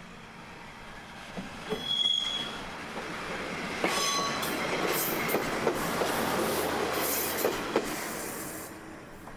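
Kominato Railway KiHa 200-series diesel railcar running past on the track. Its wheels squeal briefly about two and four seconds in, and there are several sharp clicks over the rail joints. The sound swells through the middle and fades near the end.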